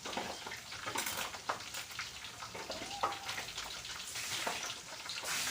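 Food frying in hot oil in a pan, with a crackling sizzle and a few sharp clicks.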